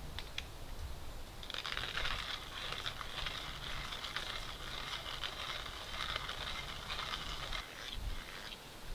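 Hand coffee grinder crunching beans as its handle is turned: a dense grinding crackle of fine rapid ticks that starts about a second and a half in and stops near the end.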